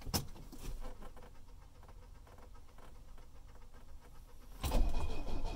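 A click and faint rustling, then about three-quarters of the way through a 1974 Mercedes-Benz 240D's four-cylinder diesel engine starts up from cold, much louder than what went before and continuing.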